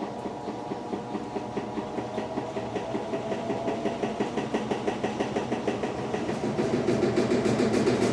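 Electrolux LTE12 Turbo Economia top-load washing machine running through its cycle with an even, rhythmic churning pulse that grows steadily louder.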